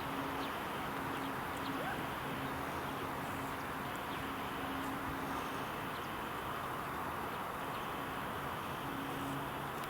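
Steady rushing of wind and tyre noise from a bicycle riding along a road, with a low hum that comes and goes.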